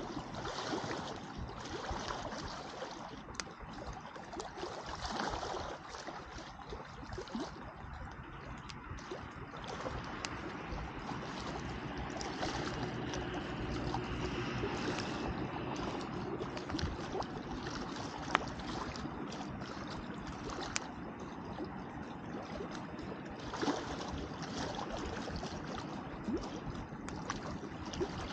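Wood campfire burning: a steady hiss and rustle with a few sharp crackles and pops.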